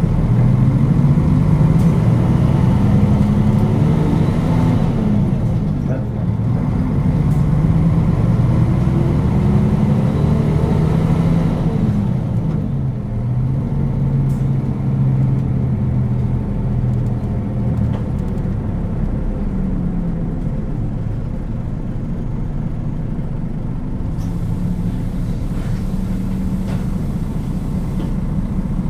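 Nissan Diesel UA452 city bus's diesel engine accelerating. Its pitch rises, drops at a gear change about five seconds in, and rises again. It eases off around twelve seconds and then runs steadier and lower.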